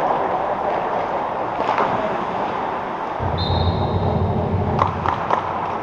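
Game ambience in an ice arena: a steady noisy hum of the rink, with a low rumble and a brief high tone about halfway through, and a few sharp knocks near the end.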